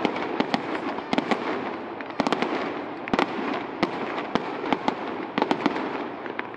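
Aerial fireworks bursting overhead: an irregular, rapid string of sharp bangs and crackles over a steady background noise.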